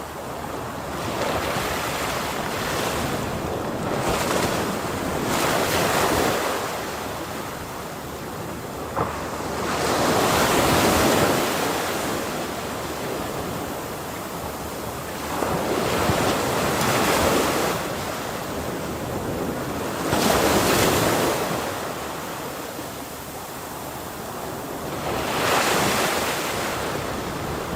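Ocean waves breaking on a shore in a continuous wash of surf, swelling and ebbing, with a louder wave about every four to five seconds.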